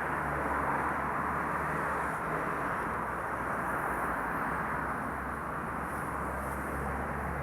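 Steady city street noise of passing traffic, an even rumble with a low hum beneath it.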